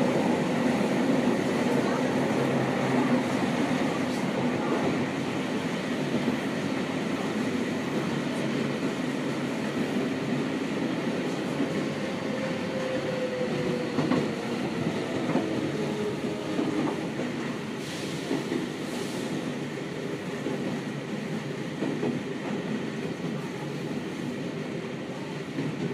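Inside a Seibu 6000 series electric train car with Hitachi GTO-VVVF traction, running underground. There is a steady rumble of wheels and running gear. A motor tone slides down in pitch about ten to fourteen seconds in, and the overall level slowly drops as the train slows.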